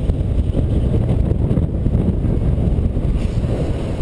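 Wind buffeting the microphone of a paraglider pilot in flight in strong wind: a loud, steady low rumble.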